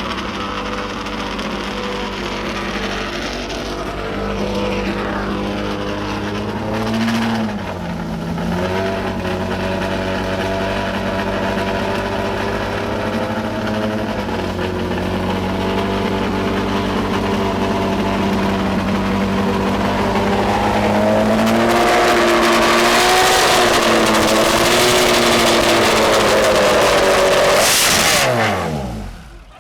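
Ferrari race car engine idling steadily, with a short blip of revs about seven seconds in. From about two-thirds of the way through it runs louder, the revs wavering up and down, until near the end it is switched off and spins down with a falling pitch.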